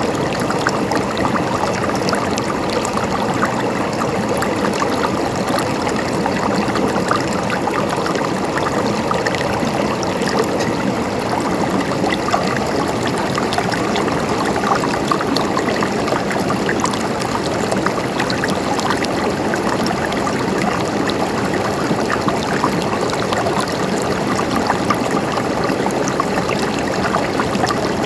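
Flowing water gurgling and splashing steadily, a constant babble of small splashes.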